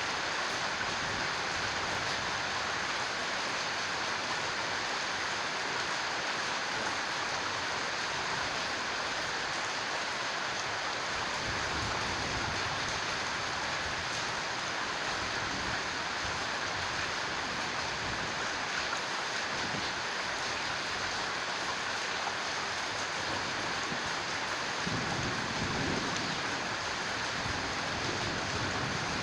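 Heavy rain pouring steadily in a thunderstorm, an even hiss that does not let up.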